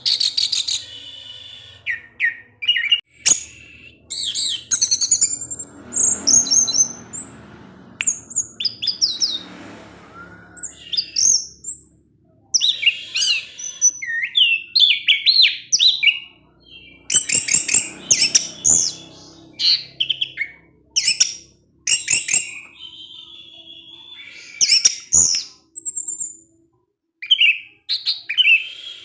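Orange-headed thrush singing a rapid, varied song of short high-pitched phrases, phrase after phrase with short pauses between them.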